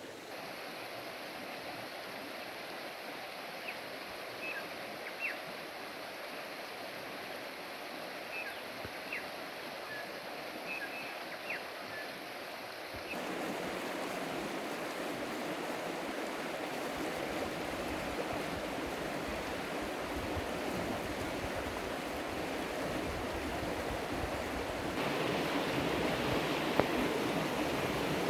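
Steady rushing of flowing water, like a stream, with a few short high chirps in the first half. The sound steps up abruptly about halfway through and again near the end, growing louder each time.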